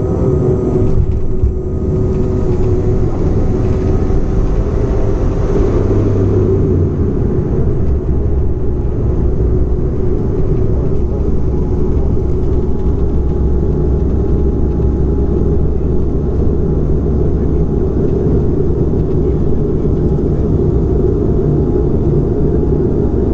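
Bombardier airliner's engines running during its landing: a loud, even rumble with several steady engine tones over it. About six seconds in, the deepest part of the rumble drops lower in pitch.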